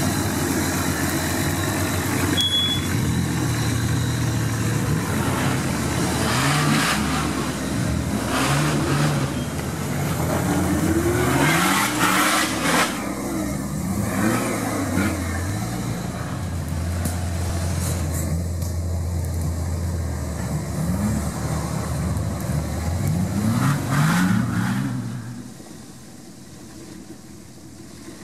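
A Nissan Patrol 4x4's engine revs up and down again and again as the vehicle drives off-road, working under load through rough ground. Near the end it drops much quieter.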